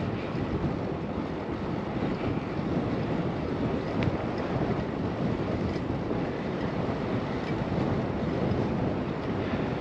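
Steady wind rush buffeting the microphone of a camera on a moving bicycle, a low, even roar with no tones in it.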